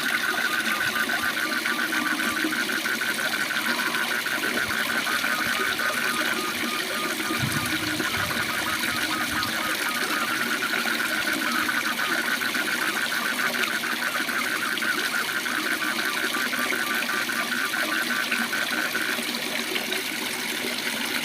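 Steady rush of a waterfall, with frogs calling in a rapid pulsing trill that stops shortly before the end.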